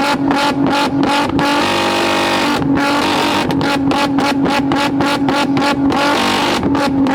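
Car engine held at high revs on a two-step launch-control rev limiter: a steady, loud note chopped by rapid cuts about three to four times a second, with an unbroken stretch of about a second around two seconds in.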